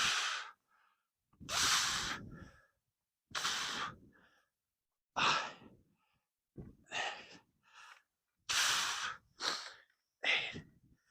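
A man's forceful breaths, puffing out sharply into the microphone in a regular rhythm about every one and a half to two seconds, once with each rep of Bulgarian split squats.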